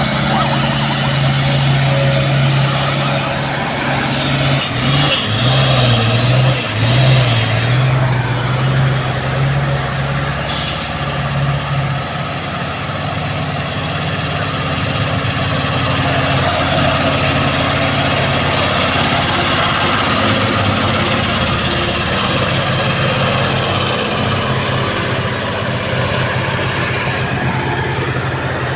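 Heavy truck's diesel engine running steadily under load, a low continuous drone whose note changes about 12 seconds in.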